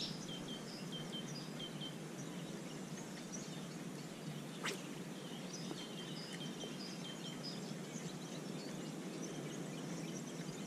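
Small birds chirping, short high notes in little runs, over a faint steady background hiss, with one sharp click about four and a half seconds in.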